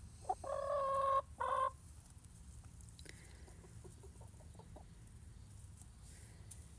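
Backyard hens calling: one long, flat drawn-out call and a shorter one near the start, then a run of soft clucks.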